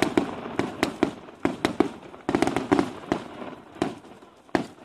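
Fireworks going off: a quick run of sharp bangs and crackles that thins out, with one last loud bang near the end.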